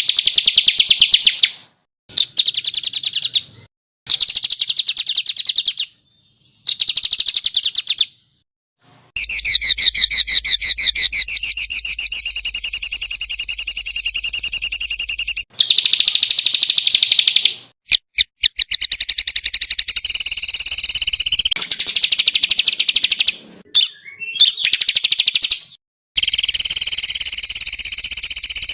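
Small songbird singing rapid-fire 'tembakan' bursts: high, fast runs of sharply repeated notes, each burst lasting one to six seconds, with abrupt silent gaps between them.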